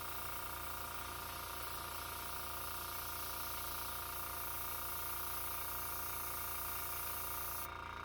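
Small airbrush compressor running steadily, humming at several fixed pitches over the hiss of air through the airbrush while paint dots are sprayed. The hiss drops out near the end as the trigger is let off.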